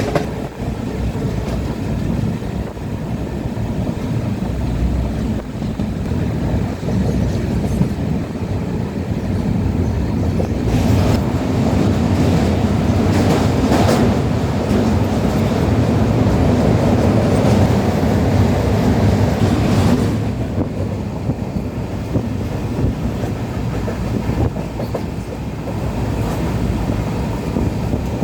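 Train running along the track: a steady rumble with wheel clatter, louder for several seconds in the middle.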